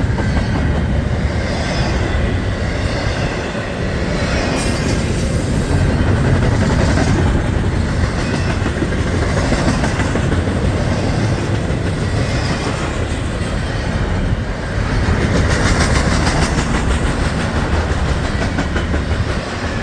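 Norfolk Southern intermodal freight cars rolling past close by: a steady, loud rumble with the wheels clattering over the rails.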